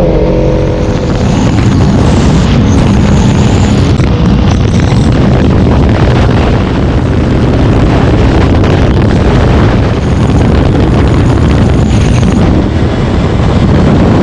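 Kawasaki motorcycle under way: the engine runs beneath a loud, steady rush of wind noise on the microphone.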